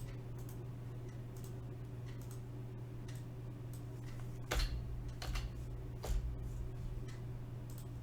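Scattered clicks of a computer keyboard and mouse, a few louder taps about four and a half to six seconds in, over a steady low hum.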